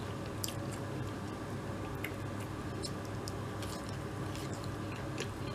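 A person chewing french fries and a fried chicken sandwich, with faint scattered mouth clicks, over a steady low hum.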